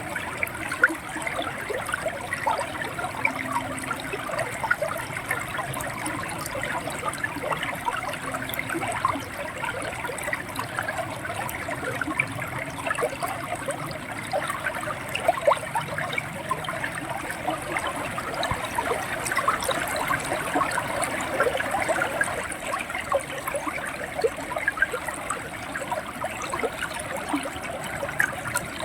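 Shallow river water flowing and gurgling over stones, a steady rush with many small splashes and droplets.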